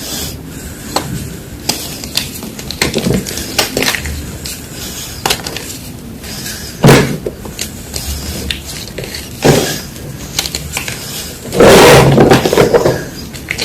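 Blocks of gym chalk being crushed, with scattered crunches and cracks. There is a sharp loud crack about seven seconds in and a longer, louder stretch of crumbling near the end.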